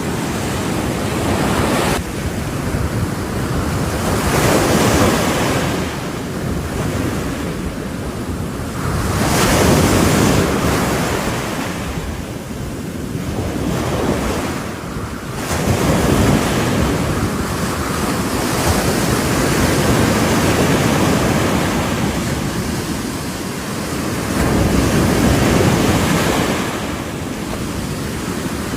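Ocean waves breaking on a shore in repeated swells every few seconds, with wind buffeting the microphone.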